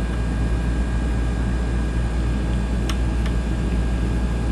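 Steady low background hum with a faint steady whine, and two light clicks close together about three seconds in as the coffee machine's water-tank outlet valve is pressed with a tool.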